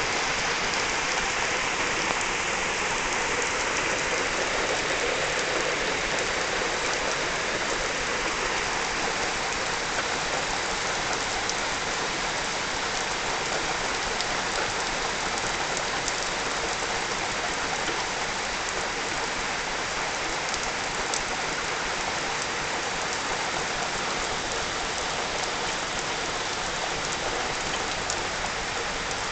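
Thunderstorm rain falling steadily, a little heavier in the first several seconds, with scattered close drips ticking.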